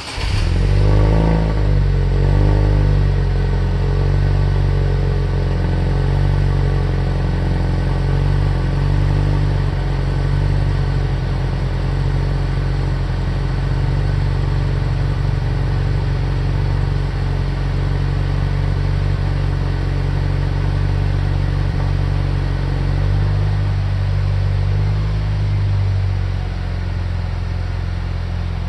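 Chevrolet Cruze's LHU 2.0L turbocharged four-cylinder, breathing through a stock Buick Verano exhaust, catching from a cold start: it flares up over the first couple of seconds, then settles into a steady fast cold idle, which dips slightly near the end.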